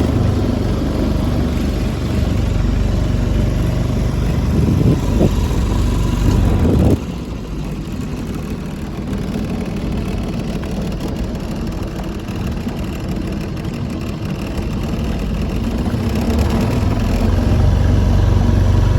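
Motorboat engine running under way; the engine note rises briefly, then drops abruptly about seven seconds in as the throttle comes back, and builds up again near the end.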